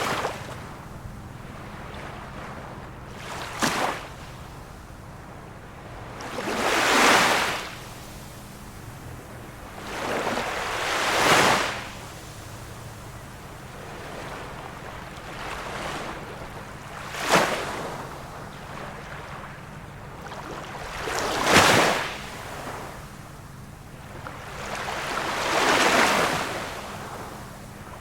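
Small waves of a calm sea breaking and washing in, one every three to five seconds: some short, sharp splashes, others swelling and fading over a second or two.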